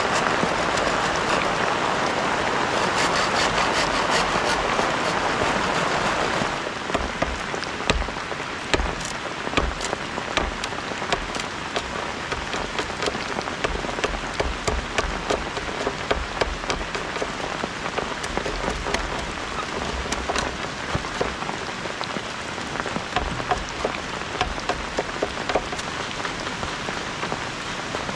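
Heavy rain falling steadily. About six and a half seconds in, the sound changes suddenly from an even hiss to a patter of separate drop hits with low thuds mixed in.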